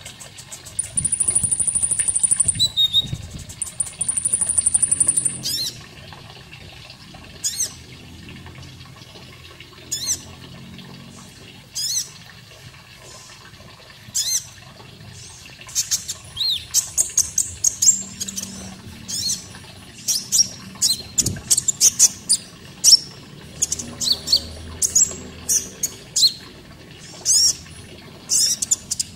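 Common iora (konin) calling: two long, high, buzzing trills in the first few seconds, then a run of short, sharp chirps and quick falling whistles.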